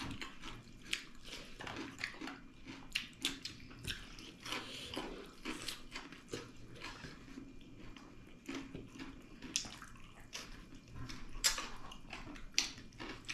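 Wet, sticky chewing and lip-smacking of people eating pork leg and dal by hand: many short, irregular smacks and clicks.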